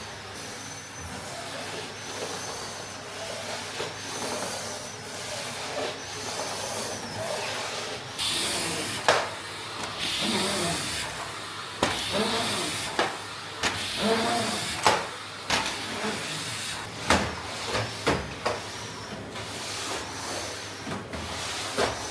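Floor cleaning: a hissing, swishing noise that swells and fades, with scattered sharp clicks and knocks and a few short squeaks in the second half.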